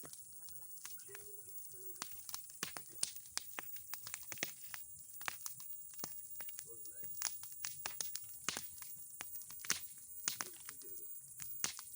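Bonfire of old boards and pine cones crackling, with irregular sharp pops several times a second over a faint steady hiss. A faint murmur of voices comes and goes a few times.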